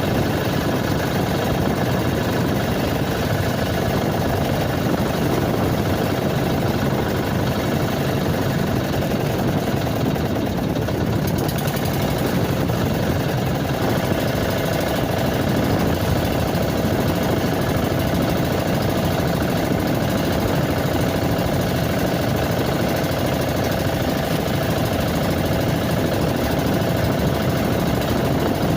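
Small engine running steadily at an even speed, with a constant hum.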